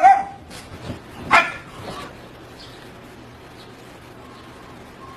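A dog barking: one loud bark at the start and another about a second and a half in, with a couple of softer sounds in between.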